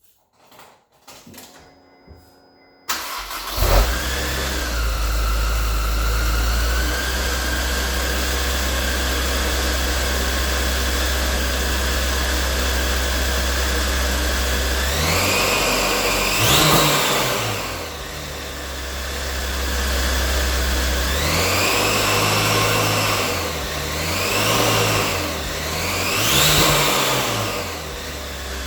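Supercharged Honda S2000 four-cylinder with a Kraftwerks supercharger. After a few faint clicks it cranks and catches about three seconds in, then settles into a steady idle with a high supercharger whine. Later it is revved once, then three times in quick succession, the whine rising and falling with each rev.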